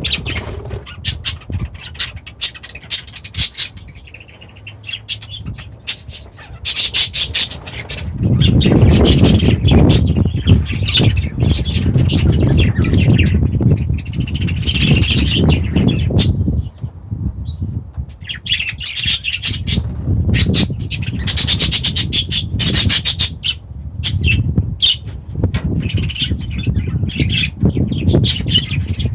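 Pet parrots in an aviary calling, with many sharp squawks and chirps overlapping. A low rumbling noise runs underneath for long stretches, strongest from about a third of the way in to just past the middle.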